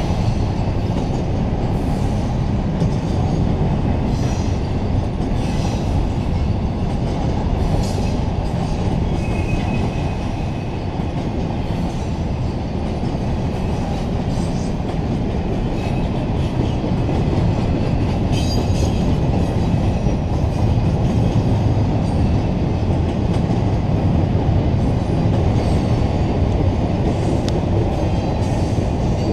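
Double-stack intermodal well cars rolling past: a steady rumble of steel wheels on rail, with brief high wheel squeals now and then.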